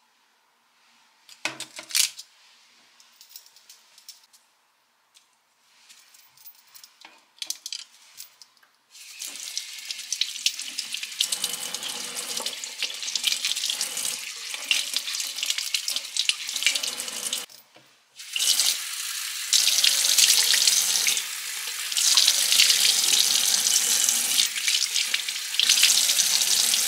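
Water running from a tap into a sink. It starts about nine seconds in, stops briefly, then runs again harder. Before it comes a few clicks and knocks of handling, one sharp one about two seconds in.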